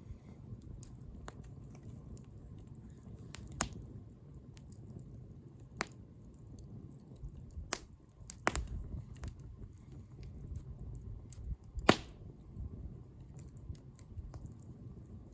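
Wood bonfire crackling, with a handful of sharp pops over a low steady rumble of flames.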